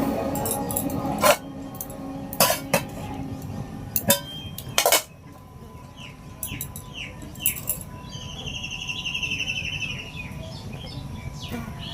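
A few sharp clinks or knocks in the first five seconds, then birds calling: a quick run of short falling chirps, followed by a trilling call lasting about two seconds.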